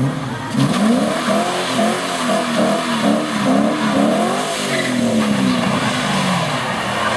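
Holden ute's engine revved hard in quick repeated rises and falls, about two a second, with the squeal of its rear tyres spinning in a drag-strip burnout. The revving gives way to a steadier note near the end.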